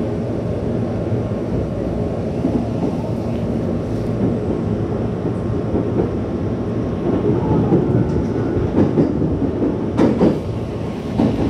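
Meitetsu train running, heard from inside the carriage: a steady low rumble of wheels and motors on the track, with a couple of heavier thumps near the end.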